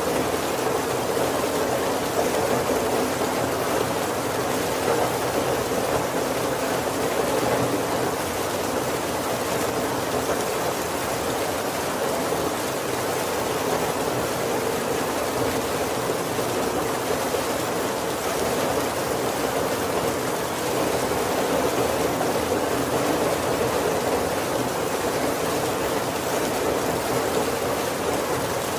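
Heavy rain falling steadily on a wooden carriage roof: an even, unbroken hiss with no thunder.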